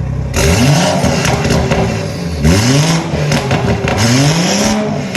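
BMW 240i's turbocharged straight-six revved three times through a 3.5-inch exhaust, each rev rising sharply and falling back toward idle, with crackles on the way down.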